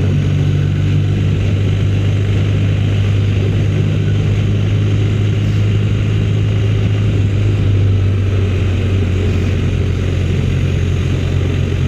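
Motorcycle engine running at a steady cruise: a constant low drone that holds the same pitch throughout, under a steady rush of noise.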